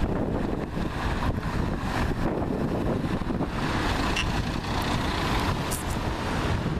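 Road traffic passing in the street: a steady low rumble of engines and tyres.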